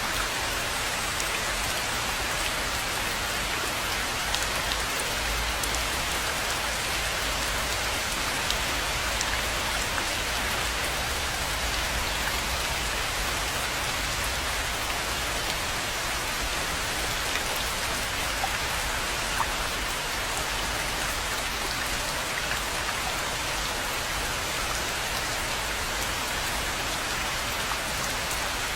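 Steady rain falling, an even hiss with now and then a single louder drop standing out.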